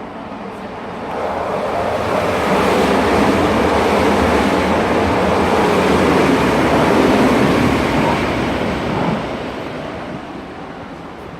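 A train passing through the station at speed on the adjacent track: its running and wheel-on-rail noise builds about a second in, stays loud for several seconds and fades away near the end.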